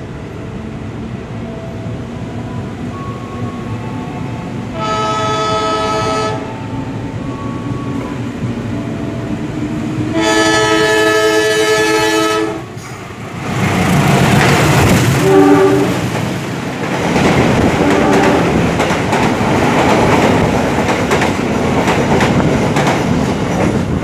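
Locomotive horn sounded twice, a shorter chord blast about five seconds in and a longer one about ten seconds in. Then a locomotive-hauled train passes close by, with a loud rumble and wheels clattering over the rail joints.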